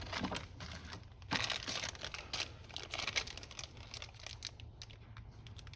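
Plastic packaging from a carburetor rebuild kit crinkling as it is handled, in a run of short crackles that is busiest from about a second in.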